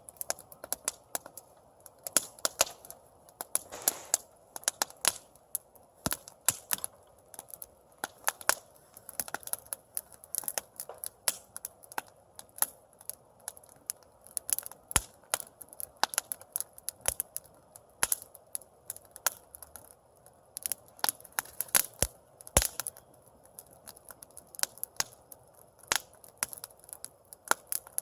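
Campfire crackling: irregular sharp pops and snaps of burning wood, several a second, over a soft steady hiss.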